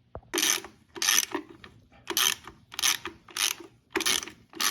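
Hand ratchet wrench cranked back and forth to back out a bolt: a run of short ratcheting bursts, about seven in a row, one every two-thirds of a second or so.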